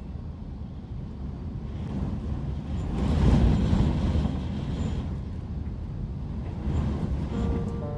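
Typhoon winds gusting with a heavy, rushing rumble on the microphone, the strongest gust swelling about three seconds in and easing off. A few steady musical tones come in near the end.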